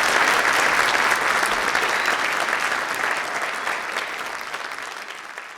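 Audience applauding, the clapping gradually dying down and cutting off near the end.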